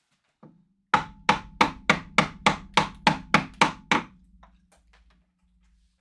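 A mallet driving a wood-carving chisel into hard wood: one light tap, then eleven sharp, even strikes at about three a second, each with a brief ringing tone.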